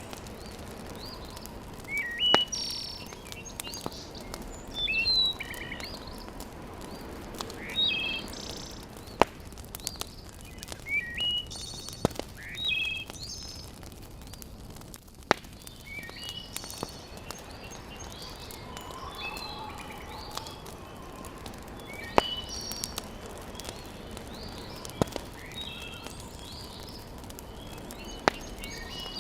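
Birds chirping in short repeated phrases, over a steady low hiss with a few sharp pops from a wood fire crackling in a fireplace.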